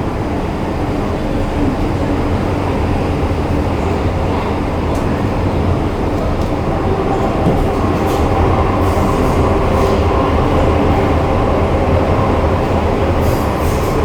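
MTR Kwun Tong Line M-Train running at speed: a steady rumble of wheels on rail with a faint motor hum, growing slightly louder about halfway through.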